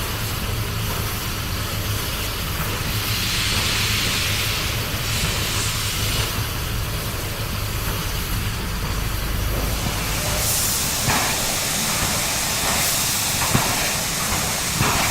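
SY-class steam locomotive hissing steam over a low rumble. About ten seconds in the hiss grows brighter and a few short clanks follow.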